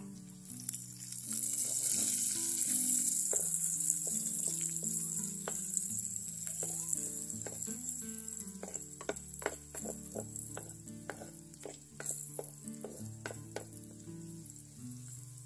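Curry leaves and green chillies sizzling in hot oil with sliced onions in a clay pot. The sizzle swells about a second in, then settles to a steadier fry. From midway a wooden spoon stirs and knocks against the pot in quick sharp clicks.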